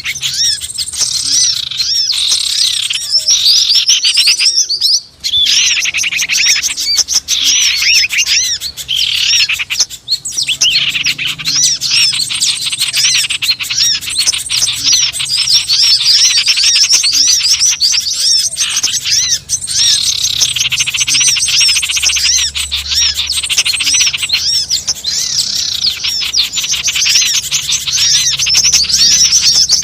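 Busy chorus of small wild songbirds chirping rapidly and continuously, many overlapping high calls with a brief lull about five seconds in. This is a bird-lure ('pikat') call used to draw small birds in.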